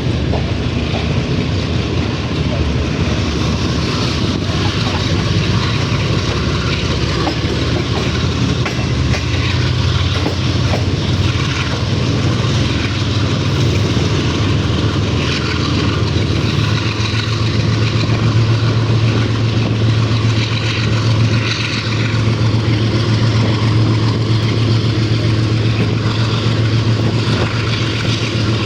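Pakistan Railways GEU-40 diesel-electric locomotive running under power, a steady deep engine drone over the noise of the moving train. The drone grows stronger a little past halfway.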